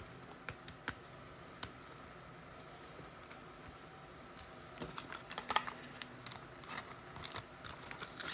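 Faint handling of trading cards and pack wrapping: a few isolated light clicks and taps at first, then a busier run of small clicks and light rustling from about halfway through.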